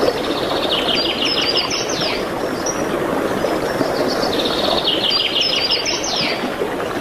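A songbird sings the same phrase twice, about three seconds apart: each a quick trill of rapid high notes ending in a falling slur. A steady rushing noise runs underneath.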